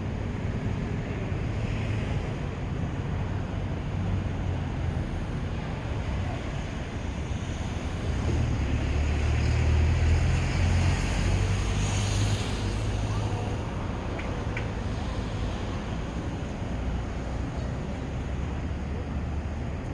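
Wind buffeting the microphone as a low rumble, gusting stronger for a few seconds around the middle.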